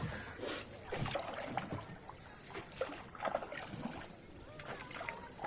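Rowboat on a lake: oars dipping and knocking and water splashing against the boat, with faint voices in the background.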